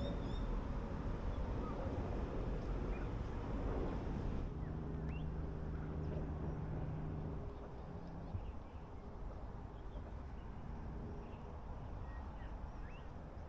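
Outdoor riverside ambience: a low rumble, with scattered short bird chirps throughout. A steady low motor hum runs for about three seconds around the middle, and things are quieter after that.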